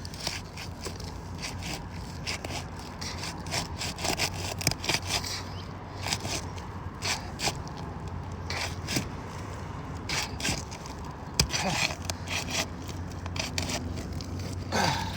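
Asphalt roof shingles being pried up and scraped, their adhesive seal strip being broken loose, in a run of irregular short scrapes and tearing strokes.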